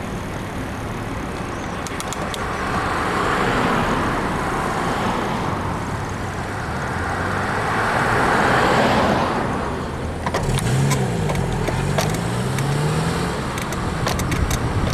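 Road traffic passing a moving bicycle: two vehicles swell past, around three and eight seconds in. From about ten seconds an engine is heard rising and falling in pitch. Sharp clicks sound over it, typical of the creaking that the rider puts down to a worn suspension bushing in the bike's frame.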